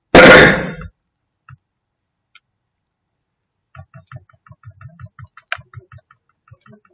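A person clears their throat once, loudly and briefly. From a few seconds in, faint quick clicks follow, several a second.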